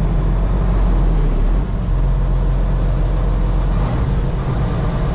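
Heavy diesel engine running steadily as a low, even drone, with a brief dip in level about a second and a half in.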